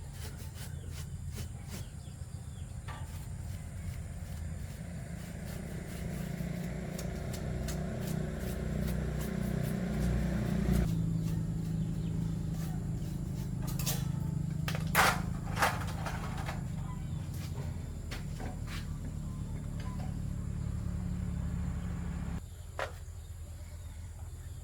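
Electric fan motor running with a steady low hum. The tone shifts about three seconds in and again about eleven seconds in, a few sharp clicks come around fifteen seconds, and the motor cuts off suddenly near the end.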